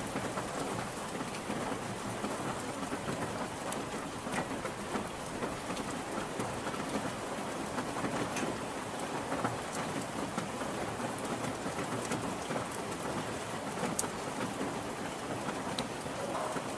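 Steady rain, a dense even hiss with individual drops ticking through it.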